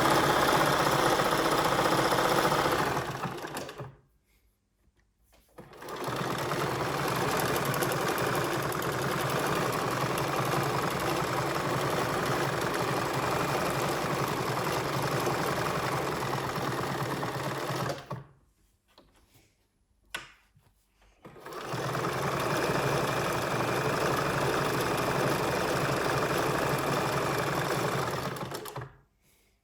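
Bernina 1230 sewing machine running steadily in three spells. Each spell stops dead and is followed by a pause of two to three seconds before the machine starts again.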